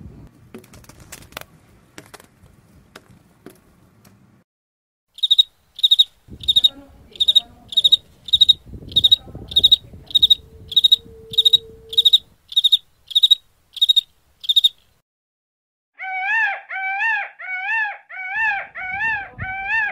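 A cricket-like insect chirping: a long run of short, high chirps at about two a second. Near the end a different animal gives six quick repeated calls, each wavering in pitch.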